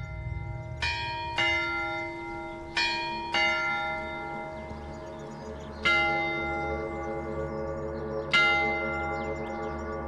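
Bells struck about six times in an uneven pattern, each stroke ringing on and slowly dying away, over a low steady hum.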